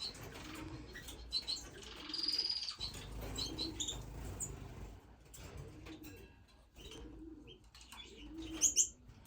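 Diamond doves cooing softly in a low, repeated call about once a second, with finches chirping in short high notes over it.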